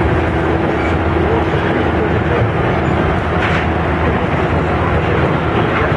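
Running noise of a Mito Line electric train, heard from inside the carriage: a steady, loud rumble of wheels on rail with a faint even hum of the traction motors.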